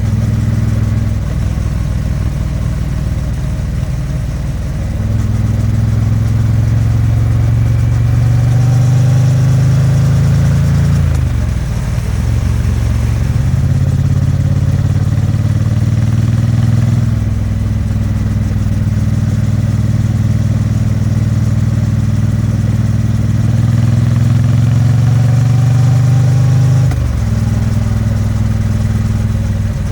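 Triumph Bonneville T100's 900 cc parallel-twin engine and exhaust under way. The engine note climbs slowly as the bike gathers speed and drops sharply twice, about eleven seconds in and near the end.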